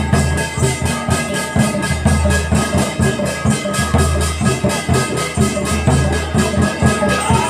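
Live Gavri folk music: a deep drum beating, with fast, even high-pitched percussion strikes keeping time above it and a few steady ringing tones held over the rhythm.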